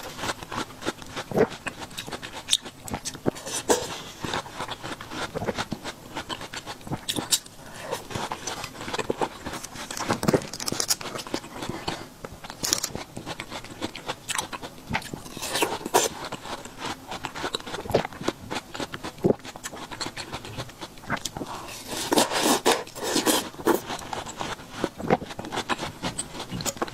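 Close-miked chewing of juicy watermelon chunks: irregular wet, crunchy bites and chews, one mouthful after another.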